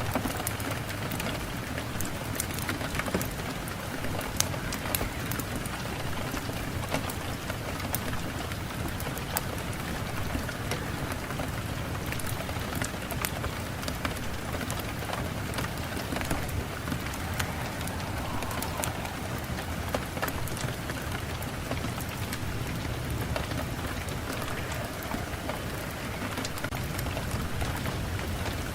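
Steady rain falling, with the close patter and ticks of individual drops hitting a surface.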